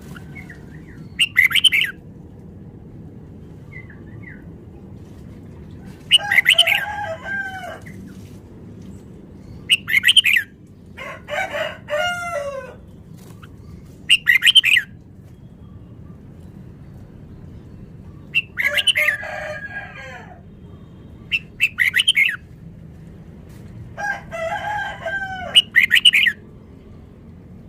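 Red-whiskered bulbul singing short, rapid warbling phrases, about eight in all, a few seconds apart, over a faint low background noise.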